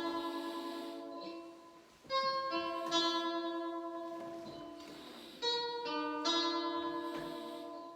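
Slow ambient guitar music: chords plucked and left to ring out and fade, a new one every second or two.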